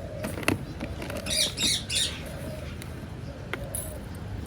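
Parrot giving a quick run of three harsh squawks about a second and a half in, with a few sharp clicks just before.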